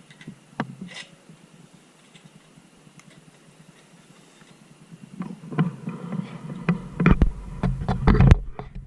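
A few isolated clicks, then from about five seconds in a dense run of irregular knocks and clatter that grows louder toward the end.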